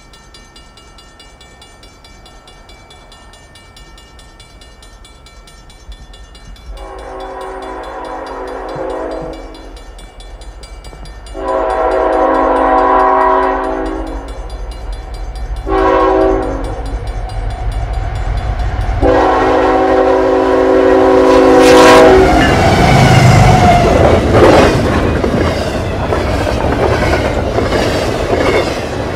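CN freight locomotive's horn, several tones at once, sounding long, long, short, long: the grade-crossing signal, growing louder as the train approaches. The locomotive and double-stack container cars then pass close by with a loud rush and rapid wheel clatter over the rail joints.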